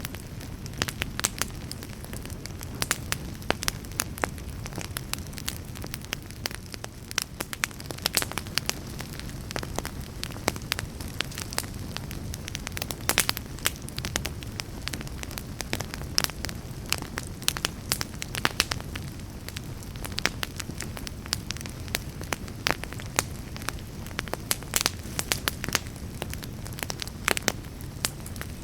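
Wood fire burning in a fireplace: a steady low rumble of flames with frequent irregular pops and crackles of burning logs.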